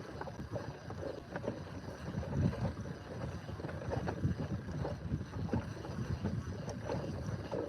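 Wind buffeting the microphone on a small inflatable boat: an uneven low rumble with scattered faint clicks and knocks.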